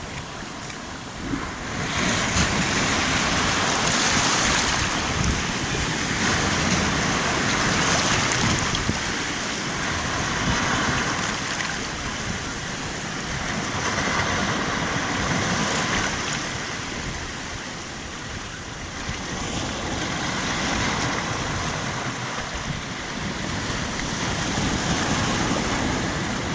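Black Sea surf breaking and washing up the shore, swelling and ebbing in several long surges.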